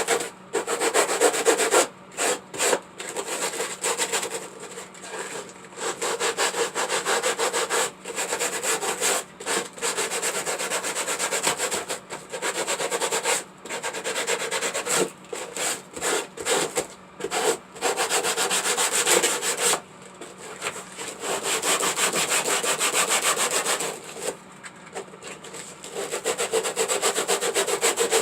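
Hand sanding with 100-grit sandpaper to round off and smooth cut edges: quick back-and-forth rubbing strokes in runs of a few seconds, broken by short pauses.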